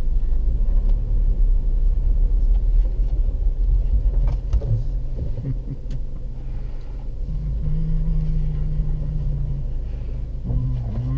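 Car driving, heard from inside the cabin: a steady low rumble of engine and road noise, with a few light clicks about four to five seconds in.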